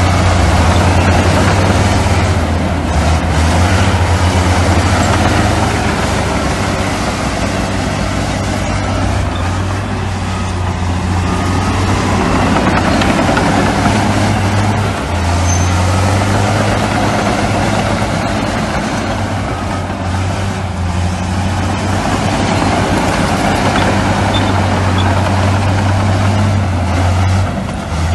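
Heavy diesel earthmoving machinery running steadily: a deep, even engine drone under a broad rough noise, the engine note dropping out briefly about halfway through and again near the end.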